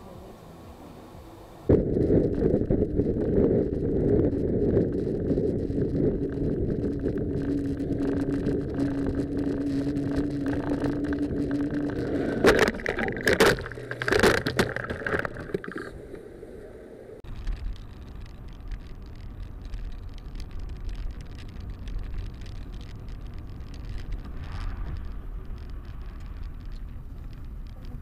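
Dashcam audio of cars on the road: steady engine and road rumble inside a moving car, with a short burst of sharp bangs about twelve to fourteen seconds in, then quieter road rumble from another car.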